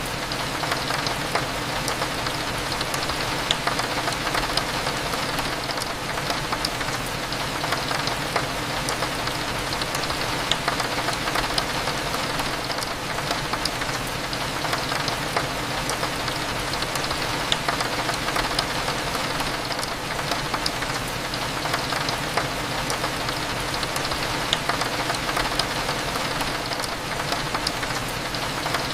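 Steady rain falling on a window, with many small drop taps over a constant low hum.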